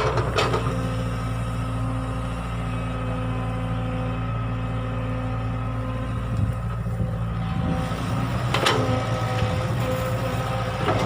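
Kubota excavator's diesel engine running steadily under work, with a few short sharp knocks near the start and again about eight and a half seconds in.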